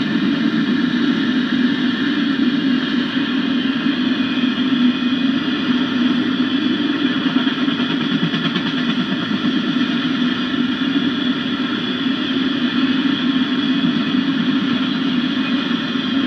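Loaded autorack freight cars rolling past at speed: a steady rumble of steel wheels on the rails, with a continuous higher metallic ringing over it.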